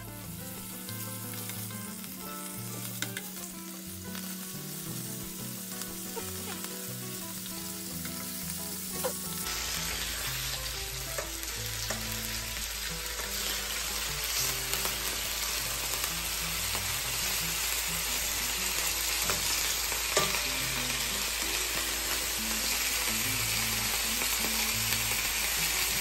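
Sliced pork sizzling in a frying pan, a steady hiss that turns louder and brighter about ten seconds in.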